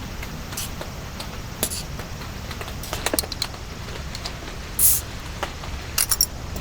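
Steady rain with scattered drops tapping sharply and irregularly, and a short hiss about five seconds in.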